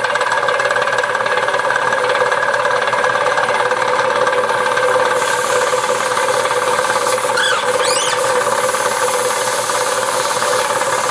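Restored 1929 air compressor running steadily with a rapid, even knocking. A short rising squeak comes about seven seconds in.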